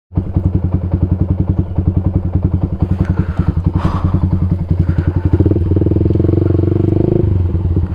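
Yamaha MX King 150's single-cylinder four-stroke engine running through a Rob1 TGA aftermarket exhaust, idling with an even pulsing beat, revved up briefly about two-thirds of the way in, then dropping back to idle.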